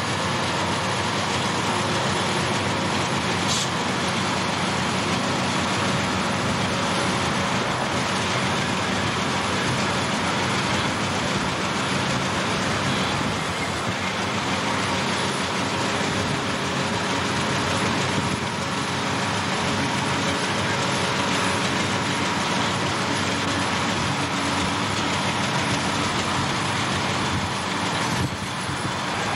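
Coal train rolling past: a steady rush of steel wheels on the rails, with the diesel locomotives' engines mixed in.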